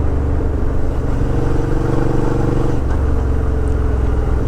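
Suzuki V-Strom 650 XT's V-twin engine running under way, its note changing about a second in and again near three seconds.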